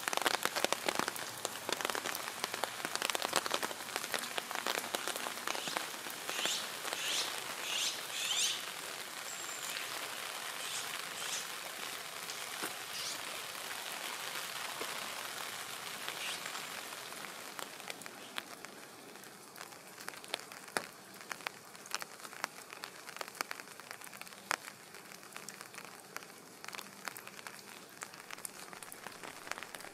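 Steady rain falling, with individual drops ticking sharply close by; the rain eases off in the second half.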